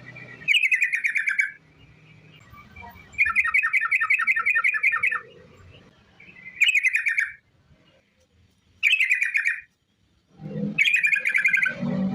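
Yellow-vented bulbul (trucukan) song: five bursts of fast, rapidly repeated chattering notes, the longest a run of about two seconds a few seconds in, with short pauses between phrases.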